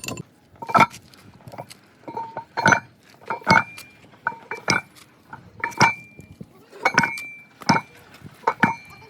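Hammer blows on steel parts of a hydraulic rock breaker, about a dozen irregular metal-on-metal strikes, one or two a second, several leaving a short ringing tone.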